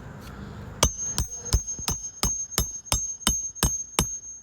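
Hammer striking a steel roof snake about ten times, roughly three blows a second, each with a high metallic ring, to drive a shingle nail from under the shingle above.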